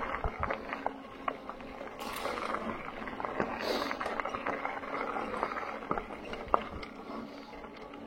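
Bicycle riding over a rough trail: an uneven crunch from the tyres with many small clicks and knocks from the bike rattling over the bumps.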